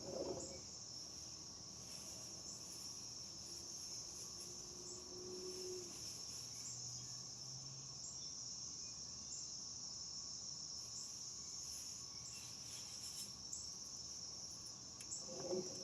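Steady high-pitched insect chorus, crickets chirping continuously.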